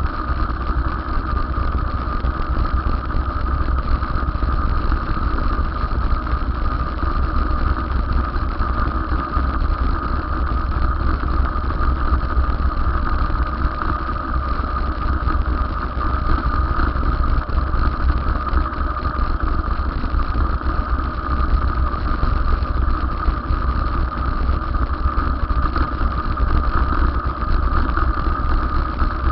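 Wind rumbling on the microphone of a moving electric bicycle, with road noise and a steady high whine.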